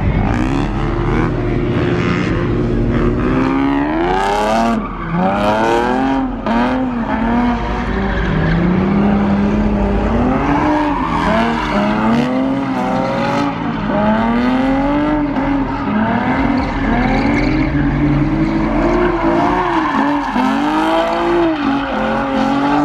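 A car engine revving hard and repeatedly while the car spins donuts, its pitch rising and falling over and over, with tyres squealing and scrubbing on the asphalt.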